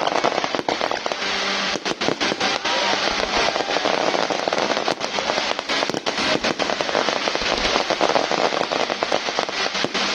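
Fireworks display in a dense, continuous barrage: rapid bangs packed closely together over steady crackling.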